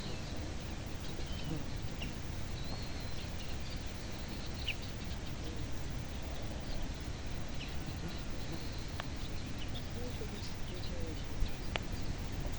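Outdoor ambience of small birds chirping now and then over a low wind rumble on the microphone, with two sharp clicks near the end.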